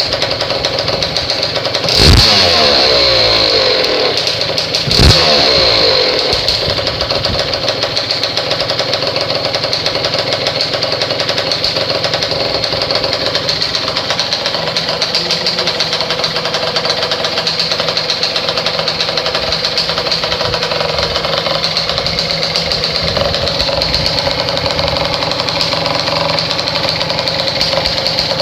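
Yamaha Grand Axis 100's single-cylinder two-stroke engine idling through a WINDJAMMERS racing expansion-chamber exhaust, blipped sharply twice, about two and five seconds in, with the revs falling back to idle after each blip, then idling steadily.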